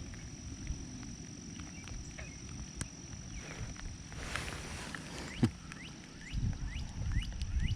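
Quiet outdoor background with a steady high thin whine. A single click about five and a half seconds in, then a bird calling in a quick series of repeated falling notes, with low handling rumble.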